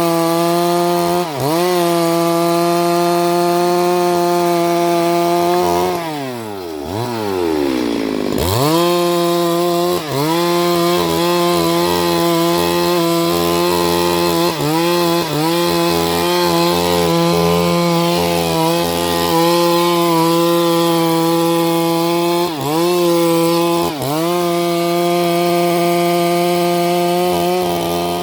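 Chainsaw running at high revs while cutting wood. Its pitch dips briefly several times. About six seconds in it drops right down and revs back up, and it falls away at the very end.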